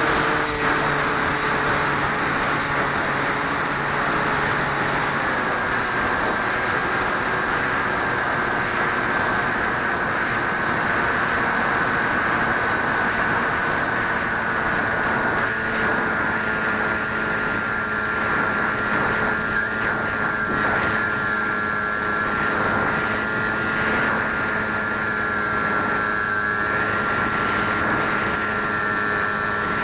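Electric motor and propeller of a Swift 2 FPV model plane, heard from the onboard camera as a steady high whine over rushing air noise, the whine sagging slowly in pitch as the throttle eases.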